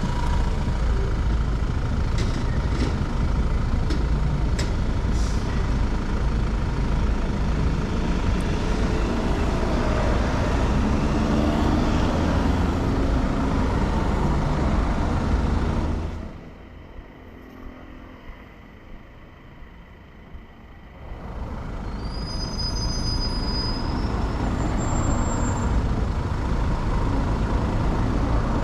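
Wind rush on a GoPro camera together with the engine and road noise of a Honda 125 cc motorcycle riding in city traffic. About sixteen seconds in, the noise drops sharply for some five seconds. A few short high-pitched squeals follow, and then the rush builds again.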